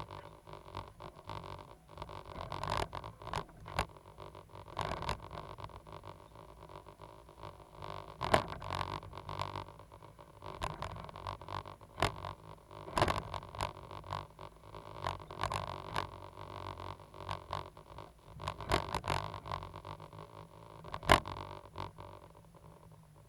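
Cat 320GC excavator's diesel engine running steadily under irregular clunks and scrapes from the machine at work, with sharp knocks about a third of the way in, in the middle and near the end.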